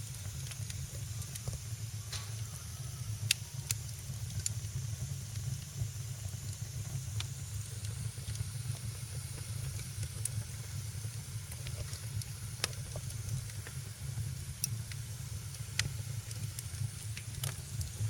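Wood fire burning in a fireplace: a steady low rumble of flames with a soft hiss and scattered sharp crackles and pops, the loudest pop about three seconds in.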